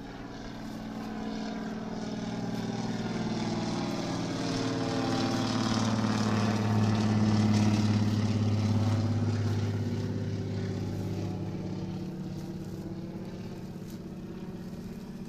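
Engine of a passing craft droning steadily, growing louder to a peak about halfway through and then fading away.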